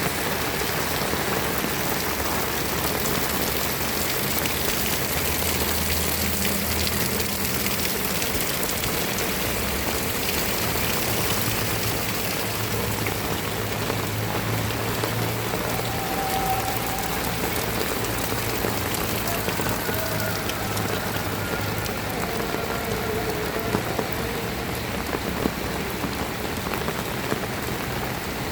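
Heavy rain falling with a steady hiss, a few louder drops standing out near the end.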